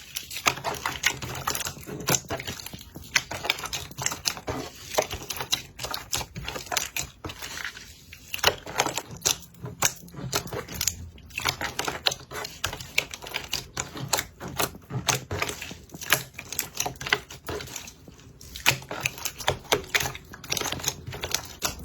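Slime being worked by hand, giving a fast, irregular run of sharp clicks and crackles.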